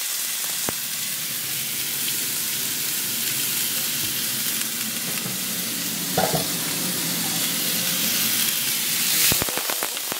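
Chicken pieces sizzling steadily in hot olive oil in a nonstick frying pan. There is a brief knock about six seconds in, and a few sharp clicks near the end.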